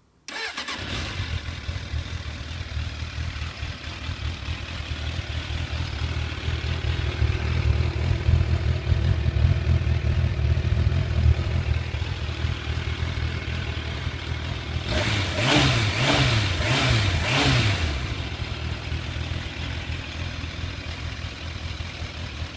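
Suzuki GSX 750 Inazuma inline-four starting up through a Mass Titan Tromb aftermarket exhaust with its dB killer baffle left in, then idling with a steady low rumble. About three-quarters of the way through it is blipped several times, each rev rising and falling, before it settles back to idle.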